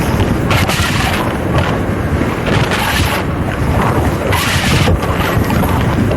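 Wind buffeting the microphone of a rider travelling fast on an electric unicycle: a loud, steady low rumble with irregular surges of hiss.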